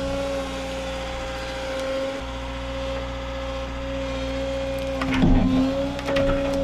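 CAT 315 excavator running with a steady whine while it clears a path. About five seconds in, wood cracks and snaps in two short bursts as brush and limbs break.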